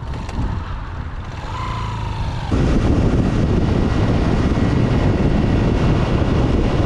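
Motorcycle engine rising in pitch as it speeds up. About two and a half seconds in, loud wind buffeting on the microphone takes over as the bike rides along.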